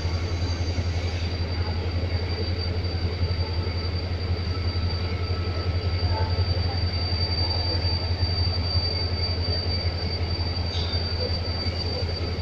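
Diesel-hauled passenger train pulling slowly out of a station: a steady low drone and the rumble of coaches rolling past, with a thin high steady whine over it.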